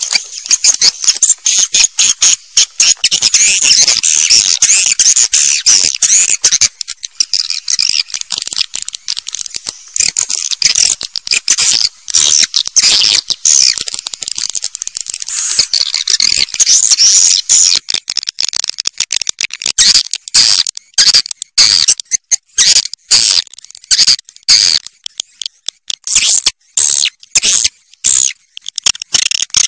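Swiftlets twittering: a dense, loud stream of rapid, high-pitched chirps, broken by brief gaps that become more frequent in the last third. It is a swiftlet call recording of the kind played in swiftlet houses to lure birds in.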